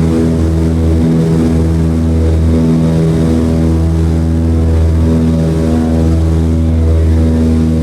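The Douglas C-53D's Pratt & Whitney R-1830 Twin Wasp radial engines running steadily at takeoff power with their propellers. It is a loud, even drone with a slow, regular wavering beat.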